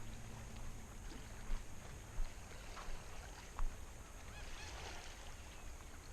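Kayak paddle strokes dipping quietly into lake water, a soft splash about every second. Faint bird calls come in a little past the middle.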